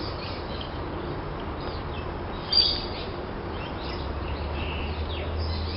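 Birds chirping in the background: scattered short, high calls, one louder call about two and a half seconds in, over a steady low hum that grows stronger near the end.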